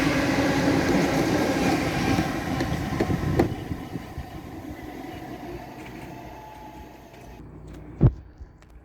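Eight-car Class 455 electric multiple unit running past, its steady motor whine and wheel noise fading as it moves away, with a couple of clicks about three seconds in. A single sharp knock near the end.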